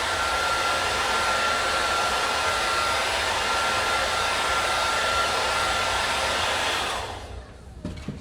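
Handheld hair dryer blowing steadily, with a thin whine running through the rush of air; it switches off about seven seconds in and winds down, and a couple of light knocks follow near the end.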